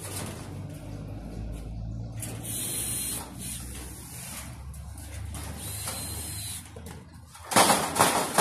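Work noises from a metal storage shed being put together: light clatter and scraping of steel frame parts over a low steady hum, then a loud, short burst of noise near the end.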